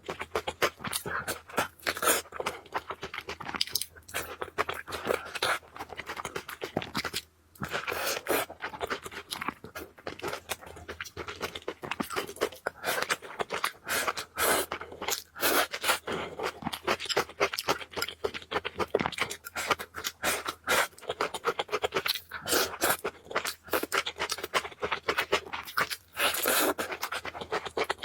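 Close-miked eating sounds of spicy noodles being chewed: a dense, unbroken run of small clicks and crackles.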